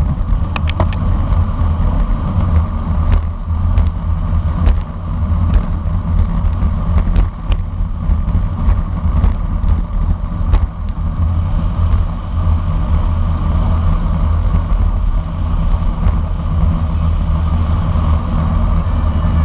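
Wind rushing and buffeting over a bicycle-mounted camera's microphone while riding at race speed, a steady loud rumble with a few sharp clicks in the first half.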